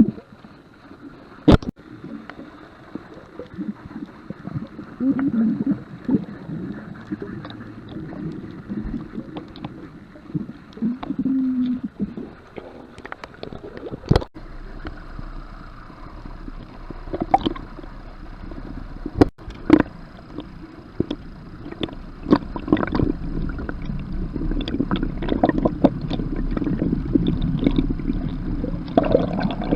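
Water sloshing and gurgling around a small boat's hull, with scattered sharp knocks.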